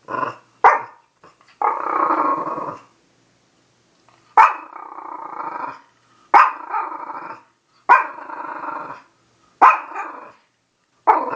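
Dog giving repeated growling barks, about eight in a row, each starting sharply and dragging out into a grumble, with short pauses between.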